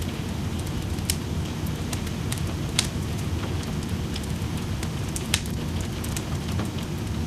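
Wood fire crackling in a fireplace, with sharp pops about one, three and five and a half seconds in, over a steady rush of rain.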